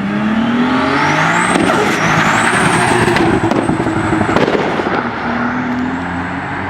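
A car engine accelerating hard, its pitch climbing, dipping briefly about two seconds in as it shifts up, then climbing again. There is a thin high whine over it and a few sharp pops. A second rise in engine pitch comes near the end.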